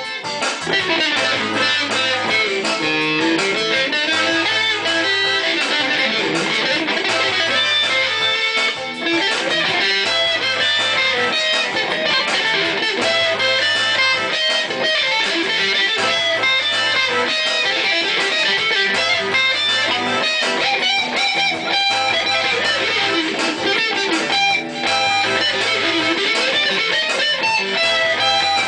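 Guitar music, mostly electric guitar: a busy picked line over a low bass note that comes and goes in a steady pattern roughly every two seconds.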